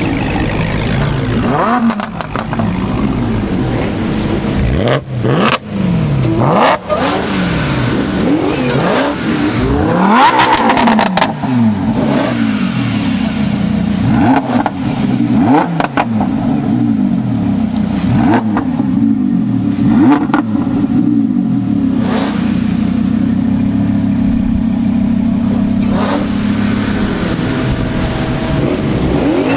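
Performance car engines revving and accelerating hard, their pitch climbing and dropping again and again through gear changes. A steadier engine note holds over the last several seconds.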